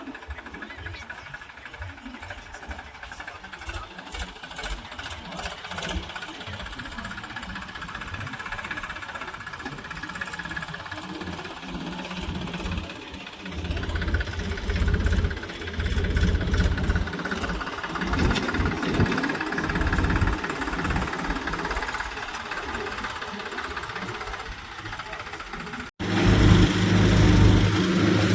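Tractor engine running, growing louder partway through, with a sudden jump to a louder engine sound near the end.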